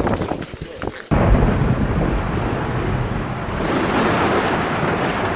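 Storm noise: a loud, deep rumble with a hiss over it that cuts in abruptly about a second in and runs on steadily.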